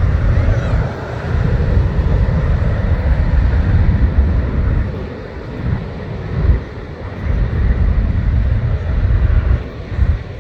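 Strong wind buffeting the microphone in uneven gusts, a heavy rumble that eases briefly around the middle and again near the end, over a steady hiss of jet aircraft noise.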